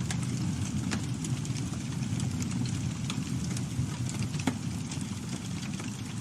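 Campfire burning: a steady low rumble of flames with scattered crackles and pops, the sharpest one about four and a half seconds in.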